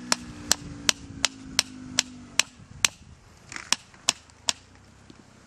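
A steady series of sharp, evenly spaced strikes, about two or three a second, like blows of a hammer or a blade, stopping after about a dozen. A low hum fades out about halfway through.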